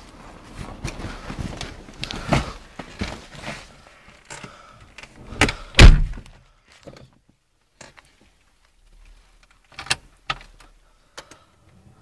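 A car door shut with a heavy thunk about six seconds in, among shuffling and handling noises, then a few lighter clicks.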